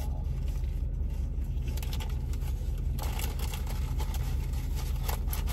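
Car engine idling, a steady low hum heard inside the cabin, with faint scattered clicks and rustling of something being handled that pick up about halfway through.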